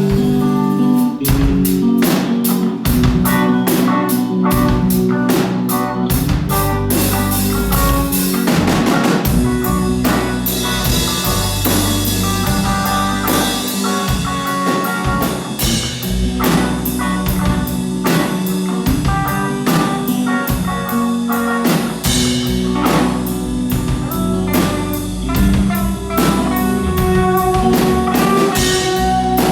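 A rock band playing: a drum kit keeps a steady beat under guitar and bass chords that change every second or so.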